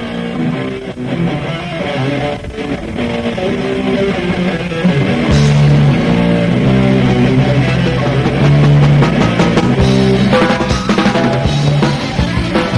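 Live heavy metal band playing a song: electric guitar with drum kit, getting louder as the full band comes in about five seconds in.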